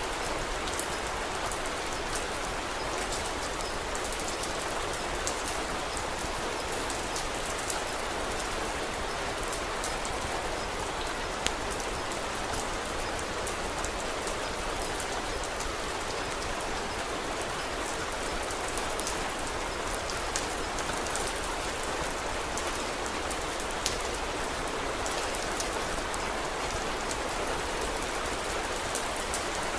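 Steady rain falling, an even hiss, with scattered small sharp clicks through it.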